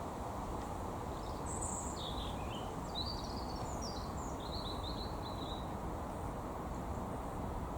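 A small songbird sings one short phrase of quick high chirps and trills, starting about a second and a half in and lasting about four seconds, over a steady low background rumble.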